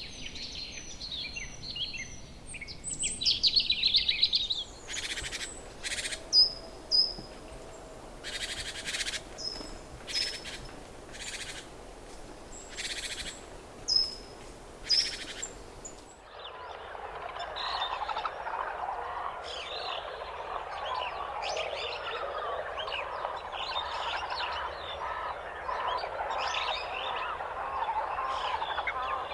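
Tropical birds calling: a quick trill, then a run of short, loud, noisy calls with brief high whistled notes between them. About sixteen seconds in it switches to the dense chatter of a flock, many birds calling at once.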